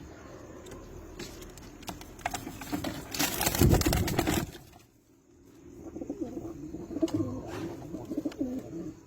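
Birds calling in low, wavering notes, with a loud burst of rushing noise lasting over a second about three seconds in.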